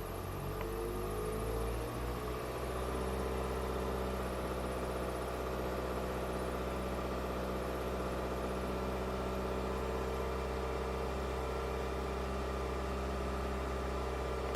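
Toyota car engine idling steadily; its pitch shifts and settles in the first couple of seconds, then holds an even hum.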